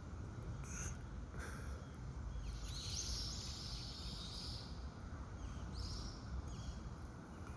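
Outdoor riverside ambience: a steady low rumble with a few short, high bird calls, the longest lasting over a second in the middle.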